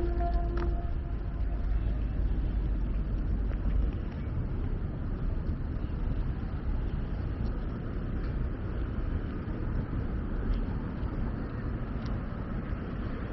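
Road traffic: vehicles passing on a city street, a steady low rumble that eases slightly about four seconds in.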